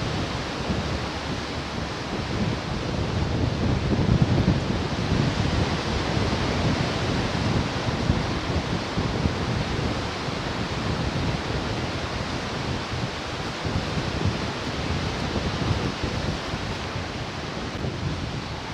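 Ocean surf breaking and washing on the shore: a steady rush of water that swells louder about four seconds in, then settles.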